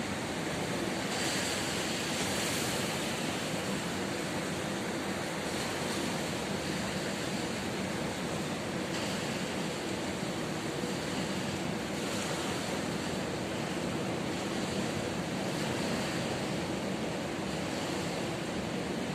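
Ocean surf washing onto a beach: a steady rush of noise that swells slightly near the start.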